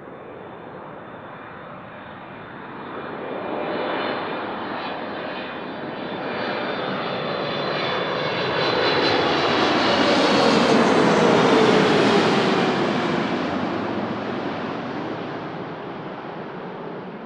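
Jet airliner passing close by. The engine noise builds, peaks about ten to twelve seconds in, then fades, with a whine that drops in pitch as the plane goes past.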